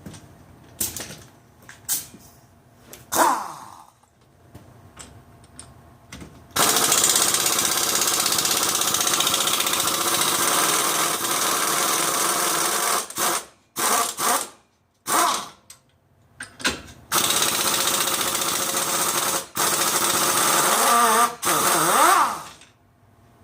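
A power tool running in several long loud bursts, after a few seconds of scattered clicks and knocks.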